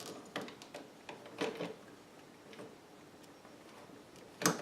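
Scattered clicks and knocks from handling a vintage Sovereign sewing machine, its parts and the leather being worked, with the sharpest knock near the end. No steady run of the motor.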